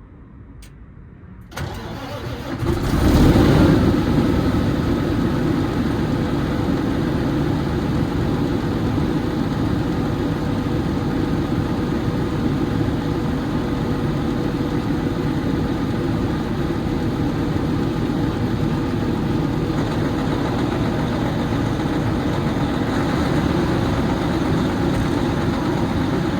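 Semi truck's diesel engine starting: it cranks about a second and a half in, catches with a loud surge around three seconds, then settles into a steady idle.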